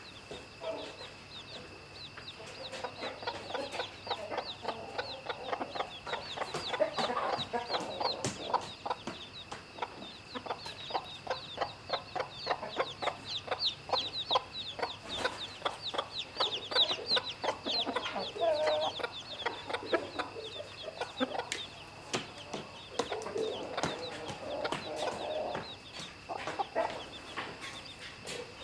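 Chicks peeping almost without pause in short, high, falling chirps, with a mother hen's low clucking now and then and many sharp little clicks.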